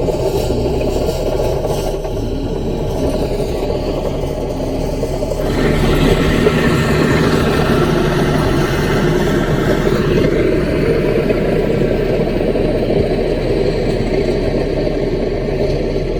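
Small Caterpillar bulldozer's diesel engine running steadily. About five seconds in it grows louder and harsher, then eases back a few seconds later.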